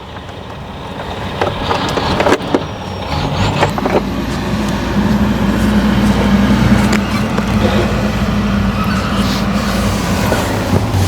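A vehicle engine running steadily, growing louder over the first few seconds and then holding, with a couple of sharp metal knocks about two seconds in.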